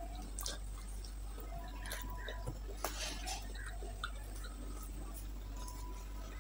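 Close-up eating sounds: a person chewing chicken leg meat with wet mouth smacks and small clicks, loudest about three seconds in, over a steady low hum.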